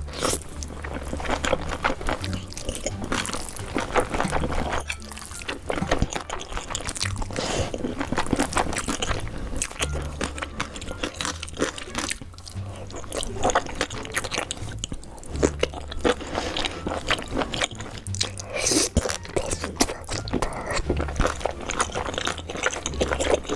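Close-miked mukbang eating: crunching bites and chewing, a dense, irregular run of crisp crackles and smacks, with low bass notes from background music pulsing underneath.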